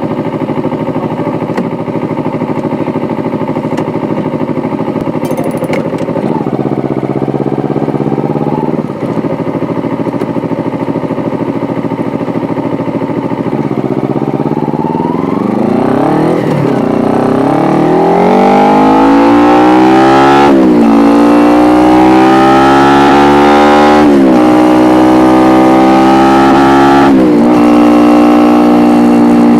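2012 Kawasaki Ninja 250R's parallel-twin engine through an Akrapovic exhaust, heard from on board. It runs steadily at low revs at first, then accelerates up through the gears: the pitch rises, with a sudden drop at each of four gear changes. Near the end it settles into a steady higher note.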